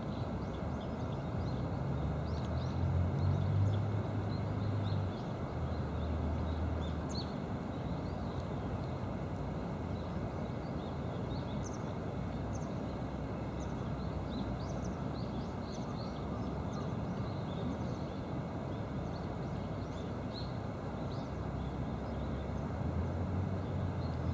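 Background birdsong: many short, high chirps scattered throughout over a steady rushing noise, with a low engine-like hum that swells a few seconds in and again near the end.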